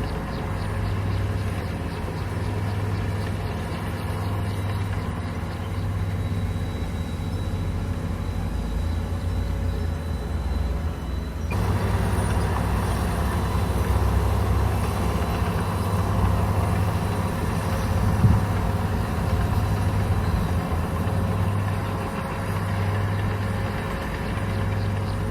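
Komatsu bulldozer's diesel engine running steadily, its low hum swelling and easing every second or so. The sound steps up abruptly in level just before halfway through, and there is one sharp knock about three-quarters of the way in.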